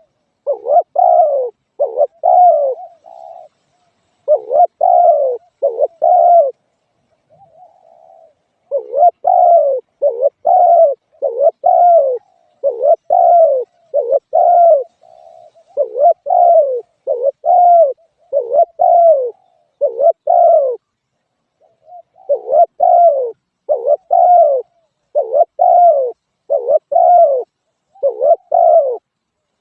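Spotted dove cooing over and over: short, falling coo notes repeated in runs of several, with brief pauses between the runs.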